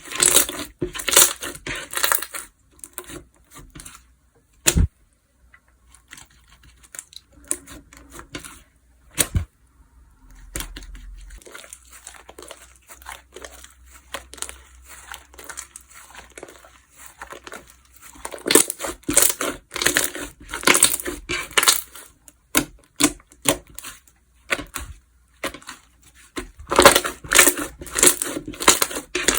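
Slime being squished and stretched by hand, giving bursts of dense crackling and popping with a quieter stretch in the middle marked by a couple of single sharp pops.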